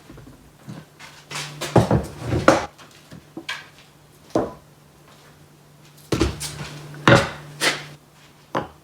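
Wooden boards knocking and clattering as they are handled and laid out. The knocks come in a cluster about two seconds in and again around six to seven seconds in, over a steady low hum.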